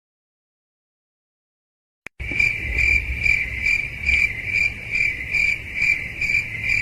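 Cricket chirping sound effect: a high, pulsing chirp repeating about two and a half times a second over a low rumble, starting suddenly with a click about two seconds in after silence.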